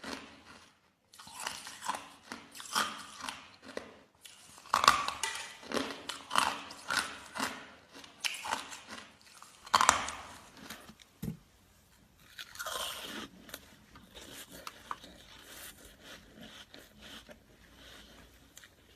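Ice cubes being bitten and chewed close to the microphone: rapid, loud crunches that grow fainter and sparser in the second half.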